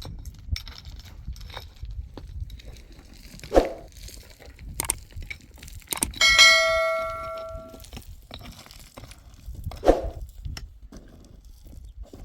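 A metal object struck once about six seconds in, ringing with several clear tones that fade over about a second and a half. Scattered knocks and clicks come before and after it.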